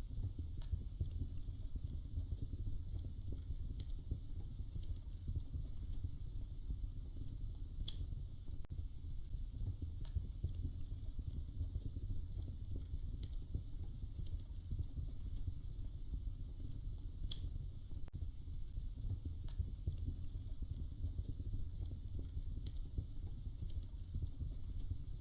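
Wood fire crackling in a fireplace: irregular sharp pops and snaps, a few every couple of seconds, over a steady low rumble.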